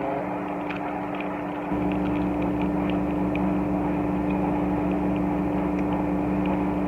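A steady mechanical hum, like a fan or appliance running in the room, with a few faint plastic clicks as the parts of a Transformers action figure are handled.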